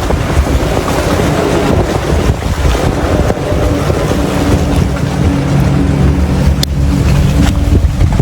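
Strong wind buffeting the microphone in a snowstorm, a loud, continuous rumble. A steady low drone joins it from about three seconds in and fades near the end.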